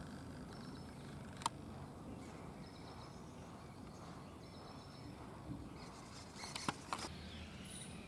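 Faint outdoor ambience with a small bird's short, high call repeating every second or two. A few sharp clicks cut through it, one about a second and a half in and several close together near the end.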